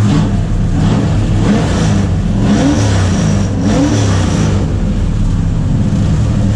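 Ford 302 Windsor V8 in a Ford XF Falcon race car, running steadily, with three short rises and falls in revs in the middle.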